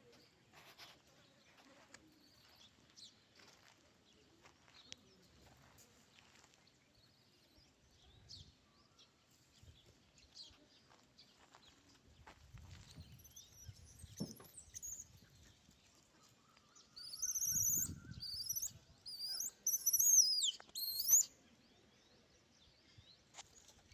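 Bird chirping in a quick run of high, sliding notes lasting a few seconds past the middle, over faint scattered clicks and brief low rumbles.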